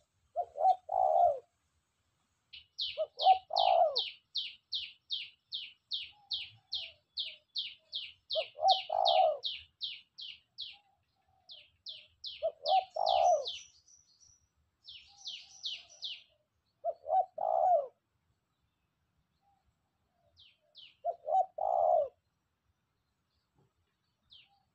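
A spotted dove (tekukur) cooing its repeated phrase six times, roughly every four seconds, calling readily. A smaller bird chirps rapidly, about three to four high notes a second, through much of the first half.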